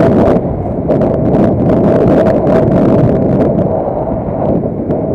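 A vehicle engine running under way, with a steady whine and heavy wind buffeting the microphone. Irregular gusts or knocks come through in the first few seconds and ease off after that.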